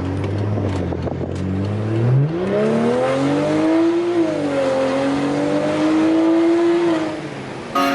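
BMW 535i's N55 turbocharged straight-six, fitted with an aftermarket downpipe and a stage 2 tune, accelerating. The engine note climbs steadily from about two seconds in, dips briefly, holds high, then drops off near the end as the throttle is released.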